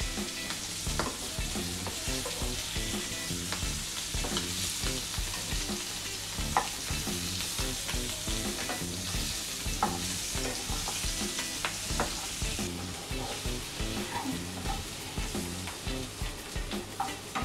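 Small whole potatoes, coated in turmeric, salt and chili powder, shallow-frying in oil in a pan with a steady sizzle while a wooden spatula turns them, knocking against the pan now and then. They are being fried to a light golden brown.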